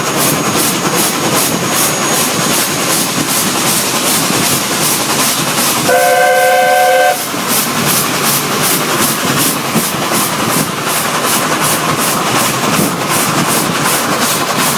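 Narrow-gauge steam train running steadily, with a fast even beat about four times a second. About six seconds in, the ex-South African steam locomotive sounds one chord-like whistle blast lasting about a second.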